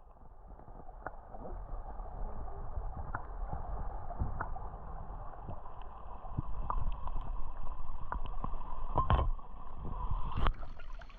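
Shallow water sloshing and gurgling, with scattered small clicks and knocks throughout and a louder knock near the end.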